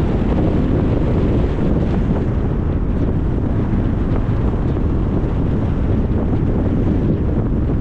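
Steady low rumble of a car driving on a road: tyre and wind noise, even throughout.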